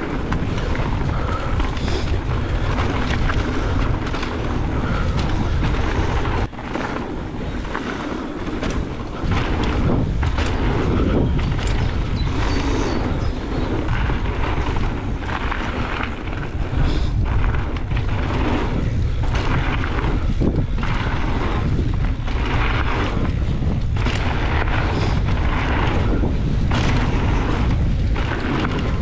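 Wind buffeting the microphone of a camera on a mountain bike riding fast down a dirt trail, a heavy low rumble with tyre noise and frequent knocks and rattles from the bike over bumps.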